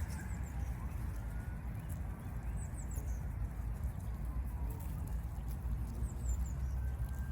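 Small birds giving short high chirping phrases three times, each a quick run of falling notes, over a steady low rumble.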